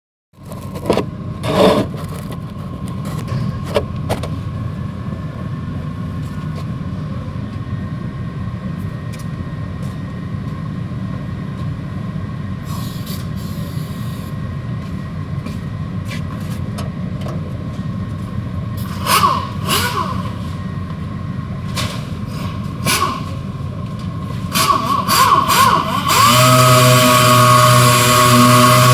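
Steady low hum broken by scattered knocks and scrapes on the panel. Near the end an electric sander's motor starts and runs on with a steady whine, as prep sanding for primer begins.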